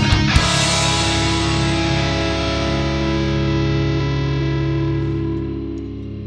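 Heavy rock music: a distorted electric guitar chord struck once and left to ring, slowly fading, with the drums stopped.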